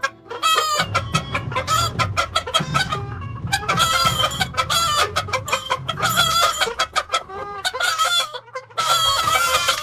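Cartoon chicken clucking and squawking: a fast run of short, wavering calls with two brief pauses.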